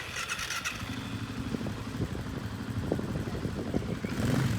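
A small ATV engine running at low revs with uneven pulses, getting louder near the end of the clip.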